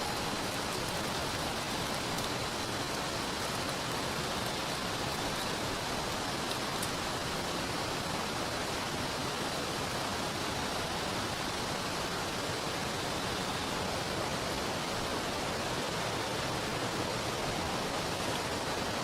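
Steady rushing water noise of rain falling and a river flowing, even and unbroken.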